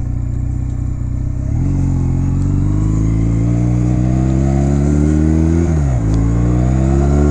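2009 Honda Rebel 250's parallel-twin engine pulling as the motorcycle accelerates. The engine note holds steady for about a second and a half, then climbs steadily, drops sharply about six seconds in at a gear change, and starts climbing again.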